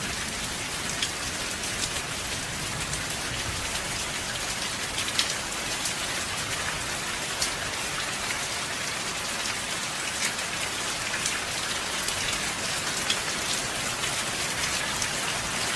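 Steady light rain: an even hiss with single drops now and then ticking sharply on a surface.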